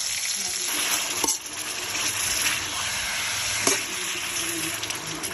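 Hot oil sizzling in a wok as dried red chilies and then pieces of beef fry, stirred with a metal spatula. Two sharp clicks of the spatula against the wok, about a second in and again past the middle.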